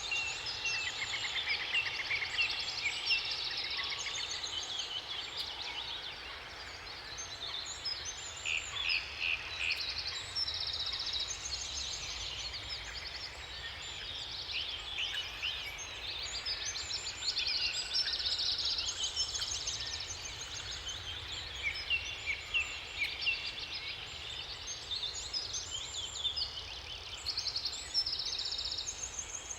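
Several songbirds singing at once, overlapping short whistled phrases and rapid trills, over a faint steady low hush.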